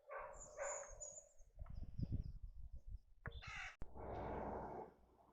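A bird calling several times, then a sudden break into a steady low noise.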